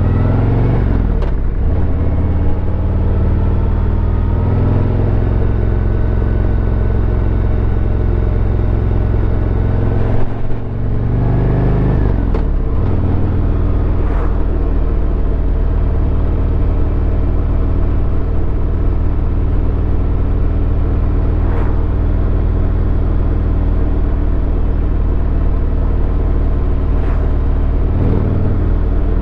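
Harley-Davidson Road Glide V-twin engine running steadily under way, its pitch dropping sharply three times: just after the start, about ten seconds in, and near the end.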